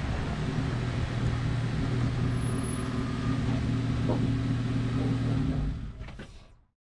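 Jeep Wrangler's 3.6-litre V6 engine running steadily, heard from under the front axle, a low steady hum that fades out near the end.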